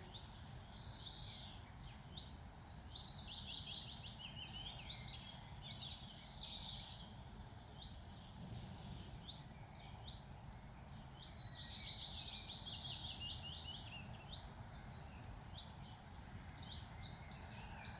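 Several wild songbirds singing in spring, with short phrases and fast trills of rapidly repeated notes, the longest trill about halfway through, over a steady low background noise.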